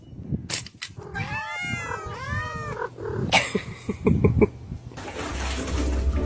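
Domestic cat meowing several times in quick succession, each call rising and falling in pitch, followed by a few knocks.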